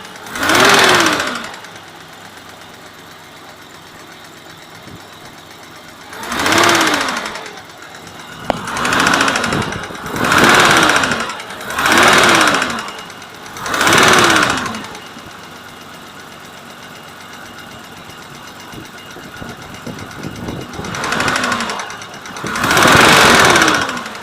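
BMW M20 straight-six engine idling and revved in eight short blips, each rising and dropping back to idle, to bring out a knock in the engine.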